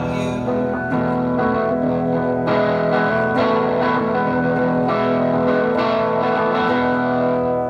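Distorted electric guitar strumming and holding chords that ring on, as the closing instrumental bars of a song played live.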